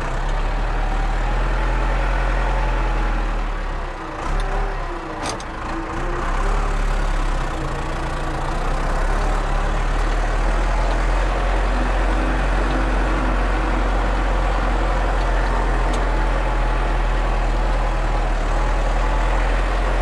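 Tractor engine running steadily, heard from inside the cab while a bale is picked up. Its note dips briefly about four to six seconds in, with a sharp click or knock there.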